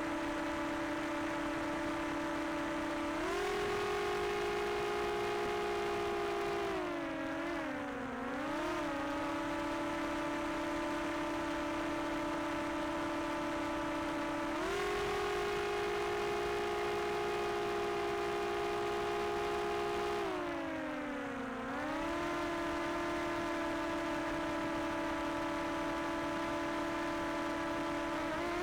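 Quadcopter drone's electric motors and propellers humming on one steady pitch. The pitch steps up twice and sags and wavers twice as the drone changes its thrust.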